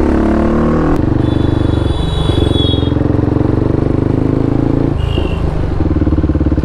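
2016 KTM RC390's single-cylinder engine with a full-system exhaust, running on the road: the engine note drops in the first second, then holds steady, with a brief change in note a little after five seconds.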